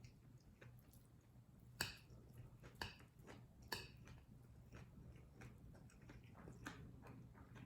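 Close-miked eating sounds of kimchi fried rice: soft wet chewing and mouth clicks, with three louder sharp clicks about two, three and nearly four seconds in.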